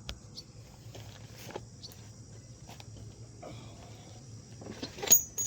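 Scattered light metallic taps and clinks as a dirt bike's rear axle is knocked out through the swingarm. One louder, ringing metal clink comes near the end.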